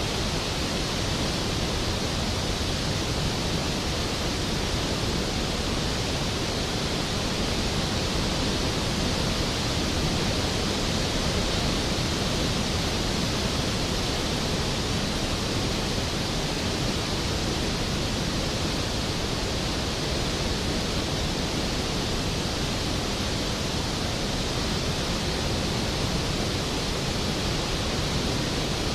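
Skógafoss waterfall's heavy, steady roar of falling water, an even rushing noise with no breaks.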